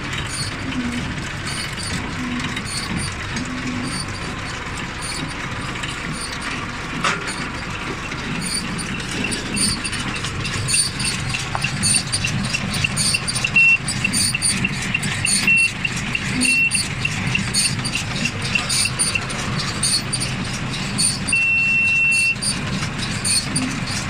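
John Deere 575 round baler running with a steady mechanical noise. From about nine seconds in, a rapid run of short high beeps sounds, two to three a second, and near the end a single longer beep.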